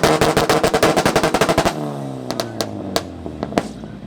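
Car engine revved hard against a two-step launch limiter, its exhaust firing a rapid machine-gun string of bangs for under two seconds, then the revs falling away with a few scattered pops.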